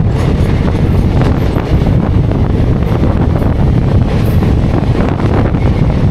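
A train running at speed, heard from inside an ICF passenger coach: a steady rumble and rattle of wheels on the rails, with wind buffeting the microphone and scattered sharp clicks.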